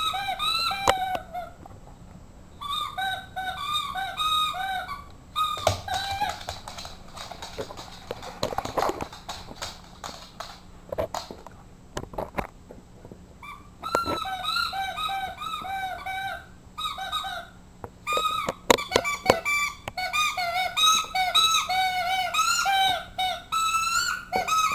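Squeaky rubber dog toy being chewed in rapid bursts, giving runs of short, high squeaks with pauses between them. Scattered clicks and knocks fill a stretch in the middle, where the squeaking stops.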